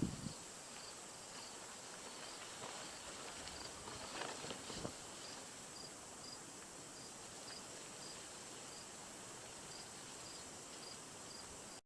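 Cricket chirping faintly and evenly, about two short high chirps a second, over a steady high hiss, with a few soft rustles about four to five seconds in.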